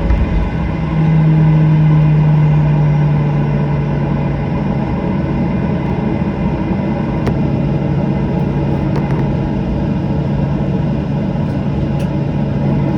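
Cabin noise of a Boeing 737-800 taxiing after landing: its CFM56 engines make a steady drone, with a low hum that swells about a second in and then eases slightly. A few faint clicks sound inside the cabin.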